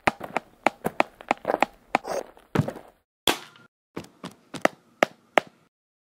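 A rapid, irregular series of short sharp hits and thuds, several a second, used as punch and strike sound effects for a stick-figure fight. It falls silent shortly before the end.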